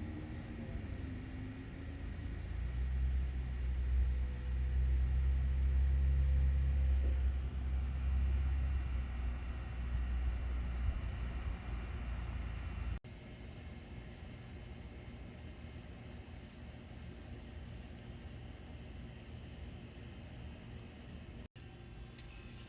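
Steady high-pitched chirring of night insects such as crickets. A low rumble, loudest in the first half, ends abruptly about thirteen seconds in, leaving only the insects.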